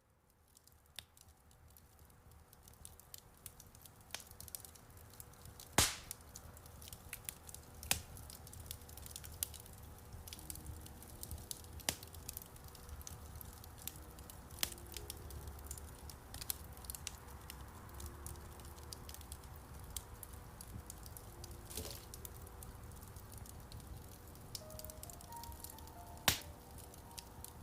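Wood fire in a fireplace crackling steadily over a low rumble, with a few loud sharp pops. Soft, sparse piano notes are held quietly underneath.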